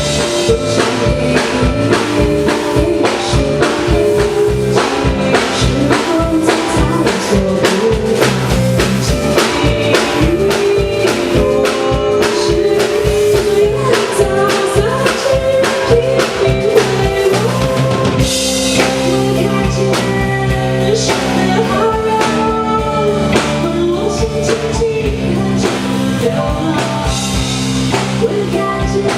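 Live rock band playing, with a busy drum kit hitting steadily over bass and chords. About eighteen seconds in, the arrangement changes: the drum hits thin out and cymbals wash over long held chords.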